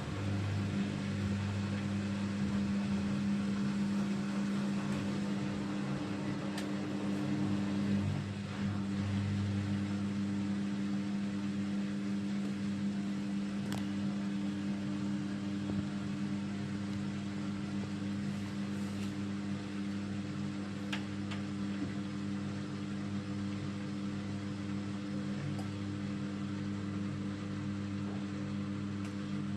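Bosch Avantixx 6 washing machine running, a steady low motor hum with faint clicks.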